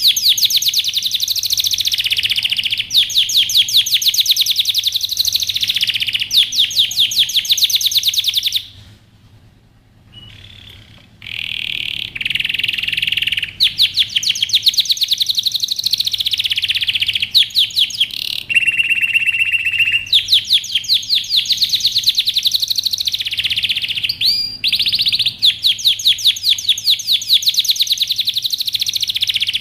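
Domestic canary singing: long runs of rapid, high trills, broken by a pause of about two seconds and, later on, a held whistled note.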